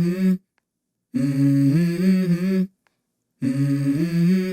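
Intro music: a hummed vocal melody sung in short phrases, each holding a few steady notes, with brief silences between the phrases.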